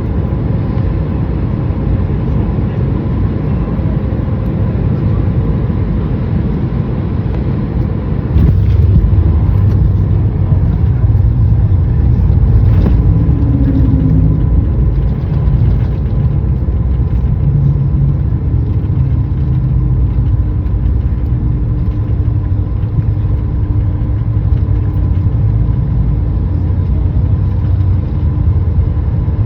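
Jet airliner cabin noise during the landing: a steady engine and airflow rumble with a faint whine, growing louder about eight seconds in.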